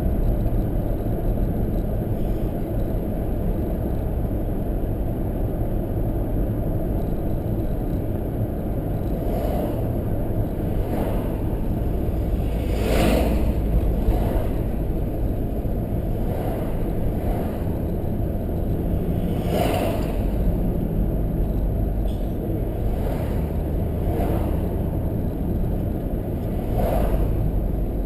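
Road and engine noise from a car being driven, heard from inside the cabin: a steady low rumble, with several brief swells of noise along the way.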